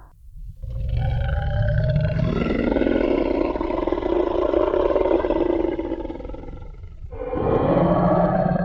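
Tyrannosaurus rex roar sound effect: a long, deep roar that swells up under a second in and dies away about six and a half seconds in, then a second roar beginning near the end, over a low rumble.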